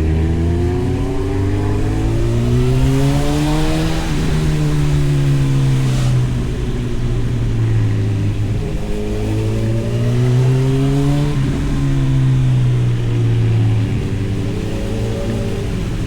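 Honda CB1000R's inline-four engine breathing through an aftermarket Arrow exhaust while being ridden. The engine note rises under acceleration, falls away as the throttle closes, then rises and falls a second time and starts climbing again near the end.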